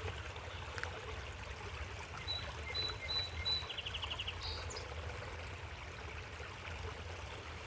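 Steady outdoor background noise with a low rumble throughout. Faint short high chirps come about two to four seconds in, ending in a quick trill, with a single small click near the start.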